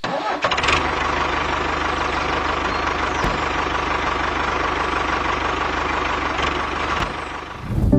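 Tractor engine sound running steadily with an even low chugging. It begins just after the start and fades out shortly before the end.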